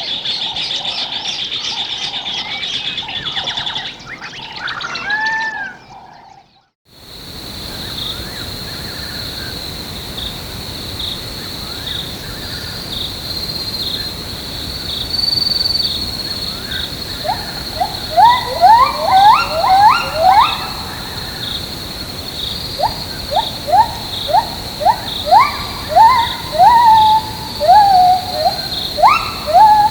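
Tropical forest ambience: a steady high insect drone, which drops out briefly about seven seconds in and returns. From about halfway through, runs of quick rising bird calls sound several times a second.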